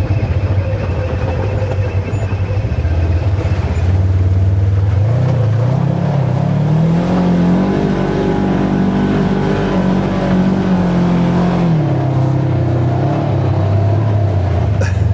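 Side-by-side UTV engine running at low revs, then revving up about five seconds in and holding the higher pitch for several seconds before dropping back a few seconds before the end.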